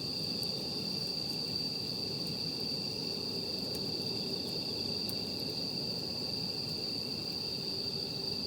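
Night insects trilling steadily in one unbroken high tone, over the low hiss of a campfire with a few faint crackles.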